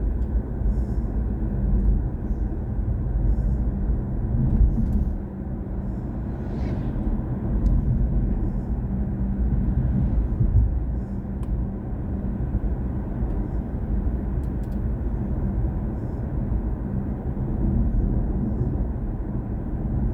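Steady low rumble of tyre and road noise from a BMW i4 M50 electric car driving along.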